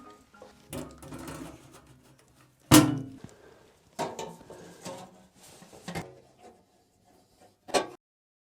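A series of separate knocks and clunks, about five in all, the loudest about three seconds in, as heavy machine parts are handled and set in place. The sound cuts off abruptly near the end.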